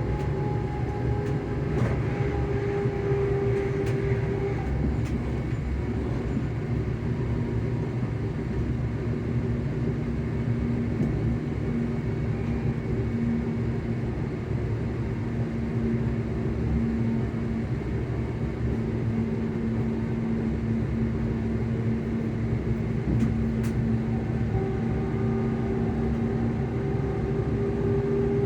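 ScotRail Class 385 electric multiple unit's traction motors humming over the steady rumble of the train running on the rails. A higher hum fades out a few seconds in, a lower steady tone holds through the middle, and the higher hum comes back near the end.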